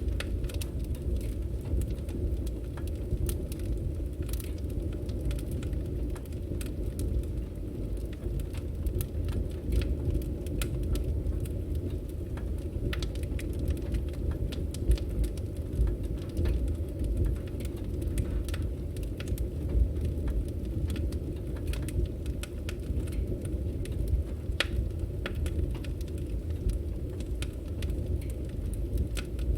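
Wood fire burning, with a steady low rumble of flames and many small, sharp crackles and pops at irregular intervals.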